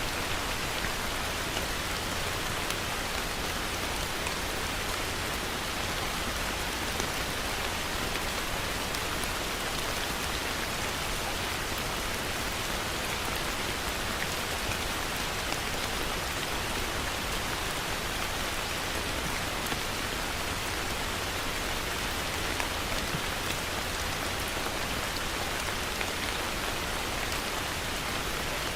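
Heavy rain falling steadily, with many individual drops ticking sharply through the even rush.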